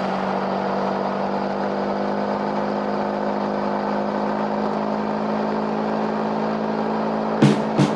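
Motorcycle engine running at a steady, unchanging pitch at cruising speed, with wind and road noise. Near the end a few sharp thumps cut in.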